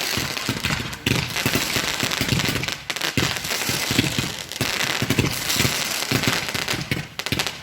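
Firework going off in a dense run of rapid crackling bangs, loud and continuous, with brief lulls about a second in and near three seconds.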